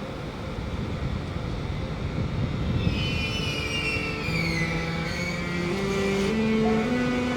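Electric train pulling away: over a low rumble, falling whines set in about halfway through, then the traction equipment sings a rising series of steady tones, stepping up in pitch like a musical scale as the train accelerates.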